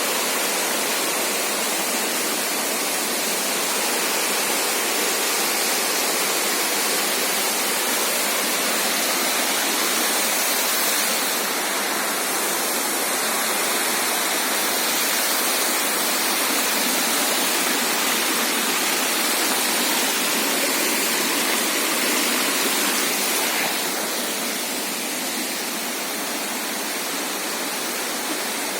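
Waterfall rushing: a steady, loud roar of falling water. It drops a little in level near the end.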